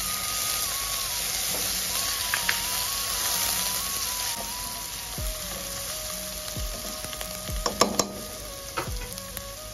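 Sliced onions and freshly added ginger-garlic paste sizzling in hot oil in a pot while a spatula stirs them, with a few sharp clicks of the spatula against the pan, the loudest a cluster about eight seconds in. Soft background music with a slow melody plays under it.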